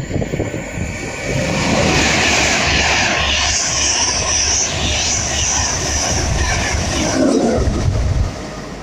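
LNER express train passing through at speed without stopping: a loud, steady rush of wheel and air noise that builds about a second in and drops away sharply near the end.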